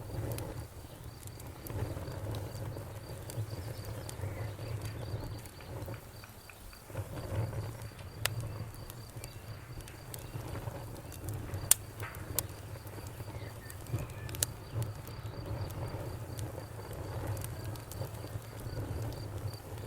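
Wood fire crackling, with a low rumble of flames under scattered sharp pops and snaps; the loudest pop comes about twelve seconds in. A faint, evenly repeating high chirp runs underneath.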